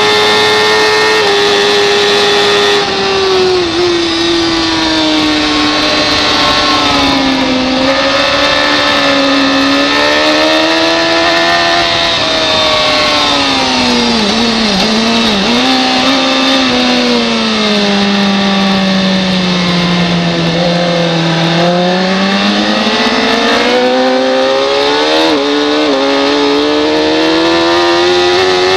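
Superbike racing motorcycle engine at high revs under way: the revs drift down over several seconds with a few quick blips near the middle, bottom out about two-thirds of the way through, then climb steadily again as the bike drives out under throttle.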